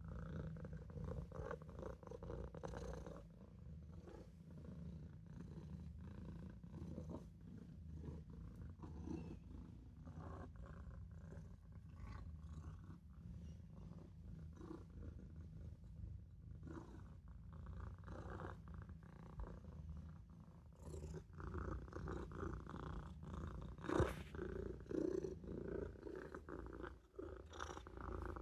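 Maine Coon kitten purring steadily in a low, pulsing rumble. A single sharp tap sounds once near the end.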